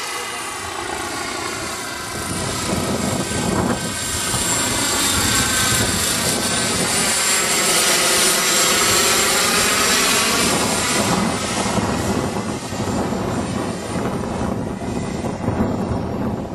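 Turbine-powered model helicopter flying past: a steady high turbine whine over rotor noise that grows louder to a peak around the middle and fades away after about eleven seconds.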